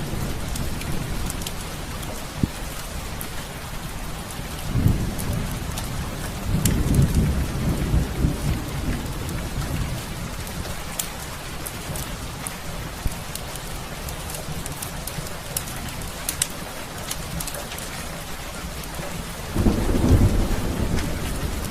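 Heavy rain falling steadily, with low rolls of thunder about five seconds in, again from about seven to nine seconds, and once more near the end. Scattered sharp crackles from a fireplace fire sound over the rain.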